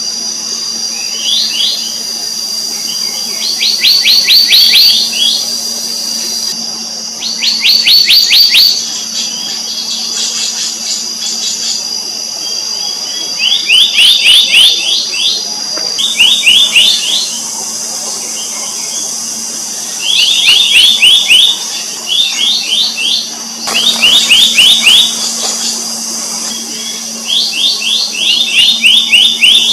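Black-naped monarch calling in bouts of rapid repeated sharp notes, about ten a second, each note sliding down in pitch; a bout of about a second comes every two to three seconds. A steady high-pitched drone runs underneath.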